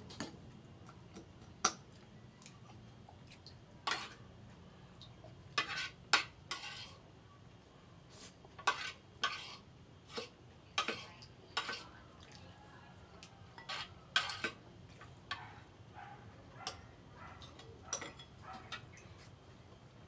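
Eating utensils clinking against dishes in short, sharp, irregular clicks every second or so, as someone eats a meal.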